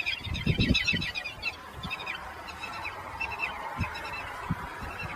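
Birds calling in a quick chattering series, thinning to scattered calls after about a second and a half, with a few low thumps near the start over a steady background hum.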